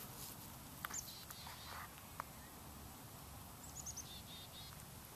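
Faint outdoor background with bird chirps: a short call about a second in and a quick run of four or five high chirps near four seconds in, with a few faint clicks between.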